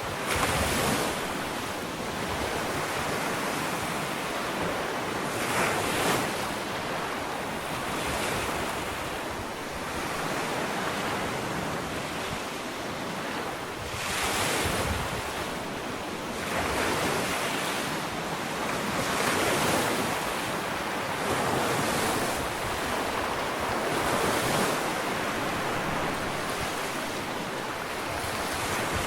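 Ocean waves breaking and washing up a sandy beach, a steady surf with a fresh swell every few seconds, and some wind on the microphone.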